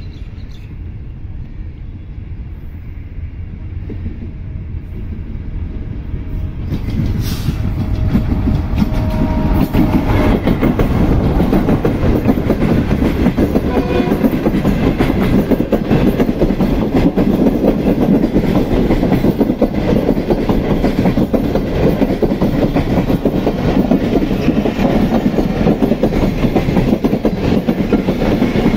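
Diesel-hauled passenger train approaching and passing close by at speed. The rumble builds over about ten seconds as the locomotive nears and goes past, then the coaches' wheels rumble and clatter steadily over the rails.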